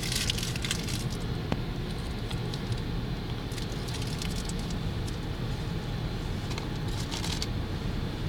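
Automatic car wash heard from inside the car: a steady low rumble of the wash machinery, with water spattering on the body and windows. The spattering is heaviest in the first second and again about seven seconds in.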